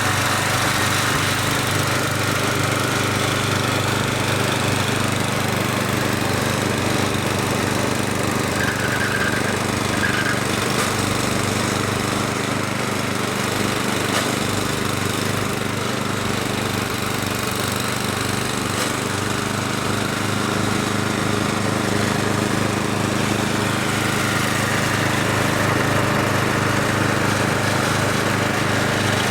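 Gas snowblower engine running steadily at an even speed.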